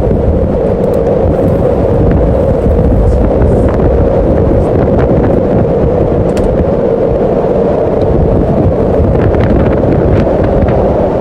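Strong snowstorm wind buffeting the microphone: a loud, steady rush, mostly low in pitch.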